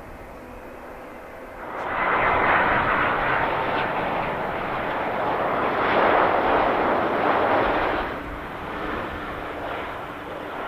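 Airliner engines, a loud rushing noise that comes in abruptly about two seconds in and eases off at about eight seconds.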